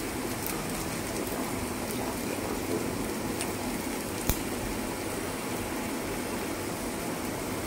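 Diced vegetables sizzling steadily in hot oil in a frying pan, with one sharp click about four seconds in.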